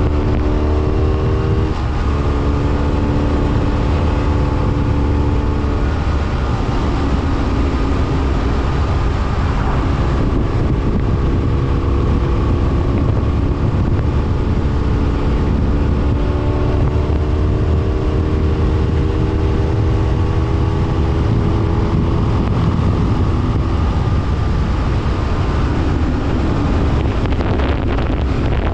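BMW F800R's parallel-twin engine running under way, its pitch climbing with the throttle and dropping at gear changes, with the first drop about two seconds in. A heavy low rumble of wind runs underneath.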